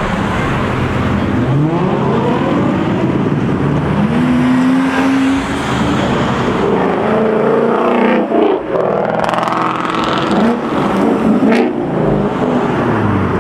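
Several performance cars revving and accelerating away, their engine notes rising and falling and overlapping, with a held note about four seconds in. There are a couple of sharp cracks near the middle and toward the end.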